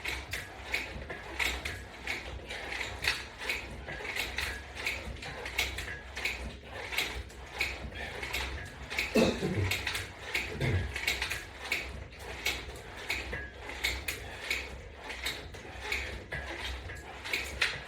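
Resistance band and latch bar attachment clicking in a quick, even rhythm, about two to three clicks a second, with each repetition of the side crunches. About nine seconds in come two short sounds falling in pitch.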